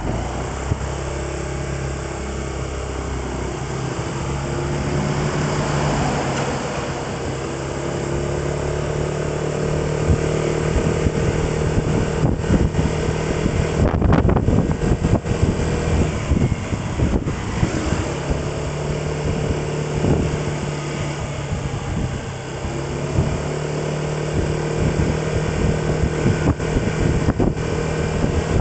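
A vehicle engine running at a steady pitch while on the move, with road and wind noise. The engine note fades for several seconds in the middle and then comes back.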